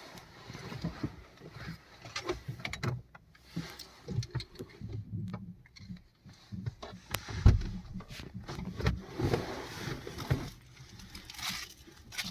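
Irregular clicks, knocks and rustling of someone handling things inside a stopped car, with a heavier thump about seven and a half seconds in.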